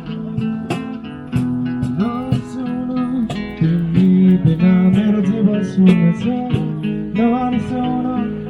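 Guitar music, a run of plucked notes with some bent pitches.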